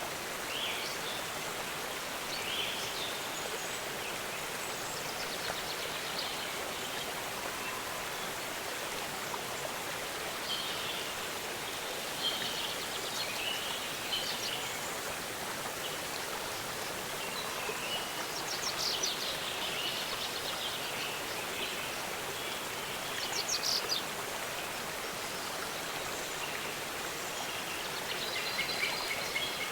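Waterfall rushing steadily, with small birds chirping over it and a few short trills standing out in the second half.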